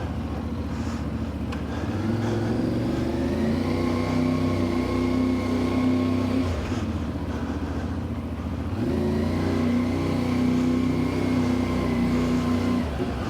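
Motorcycle engine running on the road, picking up revs about two seconds in, easing off for a couple of seconds after the middle, then pulling up again.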